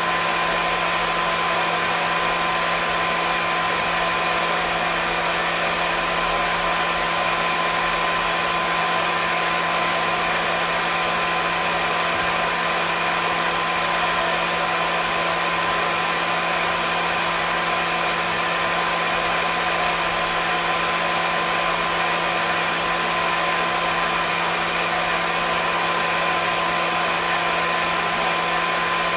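Hair dryer running steadily: an even rush of blown air with a constant motor hum and a few steady whining tones, unchanging throughout.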